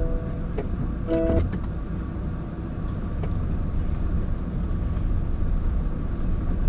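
Honda N-BOX kei car driving, a steady low rumble of road and engine noise. About a second in, a brief chord of steady tones sounds once, with a few light clicks.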